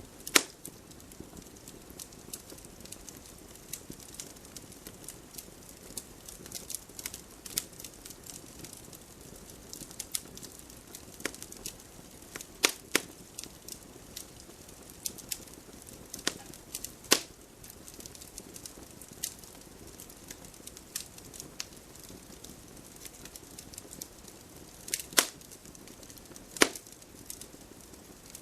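Wood fire crackling, with frequent small snaps and a handful of louder pops over a soft, steady hiss of flame.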